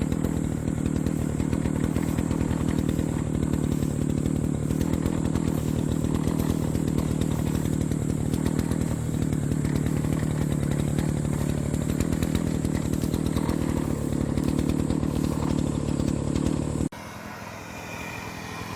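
Engine brush cutter running steadily at high speed while mowing grass; the sound cuts off suddenly near the end.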